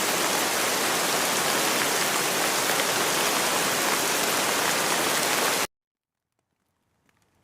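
Steady, dense rain falling, which cuts off abruptly about two seconds before the end. A second of silence follows, then faint scattered raindrops begin to patter back in.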